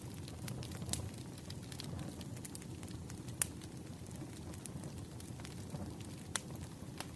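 Campfire burning and crackling: a steady low rumble with scattered sharp pops, the loudest about three and a half seconds in and another near the end.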